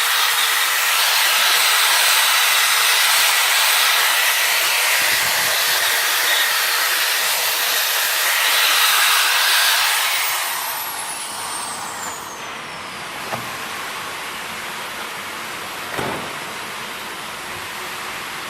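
A loud, steady rushing hiss of air from a shop tool, which eases off about ten seconds in. A thin whistle falls in pitch as it dies away, leaving a quieter hiss with a couple of light knocks.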